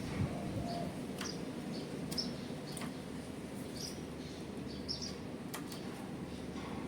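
Small birds chirping, short high chirps repeating about once a second, with a few sharp clicks among them.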